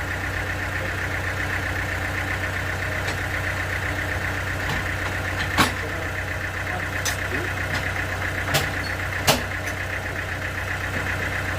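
Sawmill engine running steadily, with a few sharp knocks, the loudest about five and a half seconds in.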